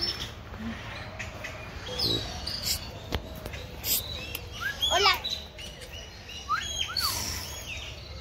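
Birds chirping: scattered short whistled calls, with a quick descending trill about five seconds in.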